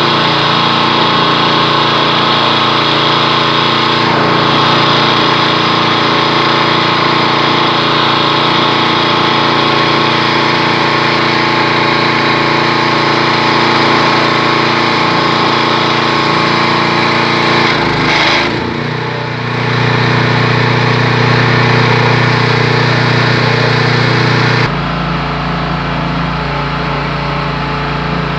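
Pressure washer running steadily with a constant machine hum. The hum shifts briefly about 18 seconds in and changes abruptly near 25 seconds in.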